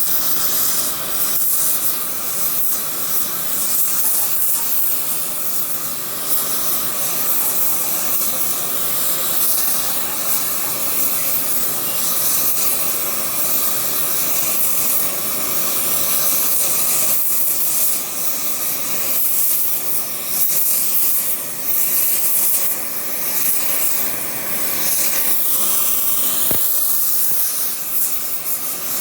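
Electric arc welding: the arc giving off a steady, loud hiss that keeps going without a break.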